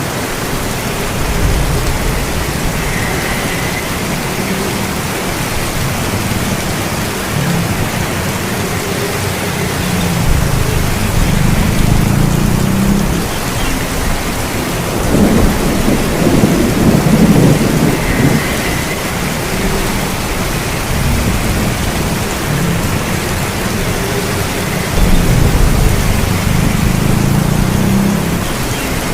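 Heavy rain falling steadily, with low rolls of thunder rumbling three times; the loudest comes about halfway through.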